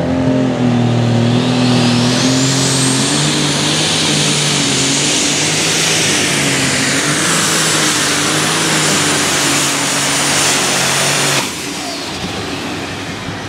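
Light Super Stock pulling tractor's turbocharged diesel engine running at full power under load down the track. A high turbo whine rises over the first few seconds and then holds. The engine sound cuts off suddenly near the end.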